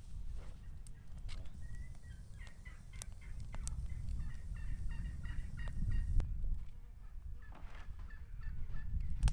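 Farm poultry calling in rapid burbling runs, one from about two seconds in to six seconds and another near the end, over a steady low rumble.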